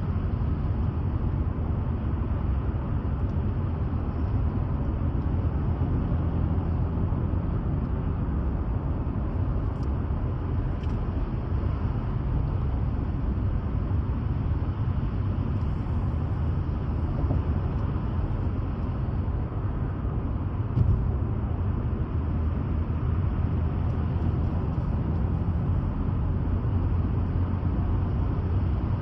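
Steady low rumble of a motor vehicle running, unchanging throughout.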